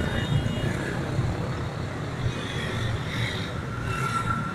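Steady road traffic rumble, with a short thin tone near the end.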